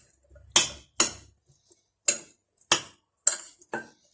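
Metal spoon clinking against a bowl six times, sharp separate knocks roughly half a second apart, as seasoning is mixed into the food.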